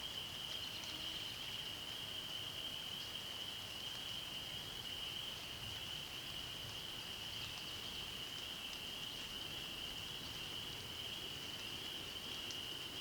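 Steady, continuous high-pitched chorus of many calling frogs blending into one unbroken trill, with a few faint higher chirps over it.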